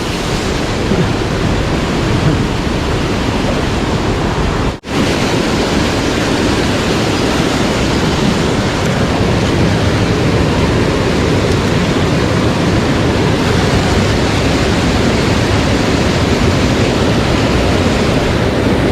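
Mountain stream water rushing steadily, an even loud noise, broken by a momentary gap about five seconds in.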